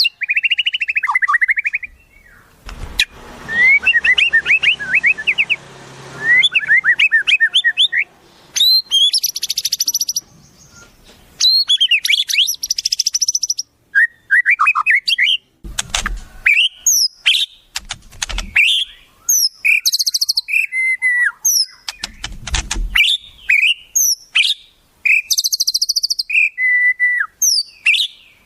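Wild songbirds calling in quick succession: sharp whistled notes that slide up and down, chattering chips, and several short, high buzzy trills, with a few low thuds among them.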